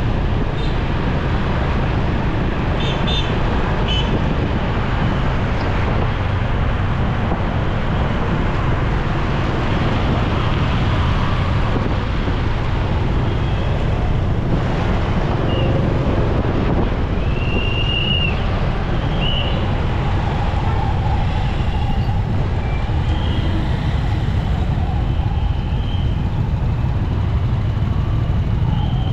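Motorcycle riding through busy city traffic: steady engine, road and wind noise, with a few short, high horn beeps from nearby vehicles in the second half.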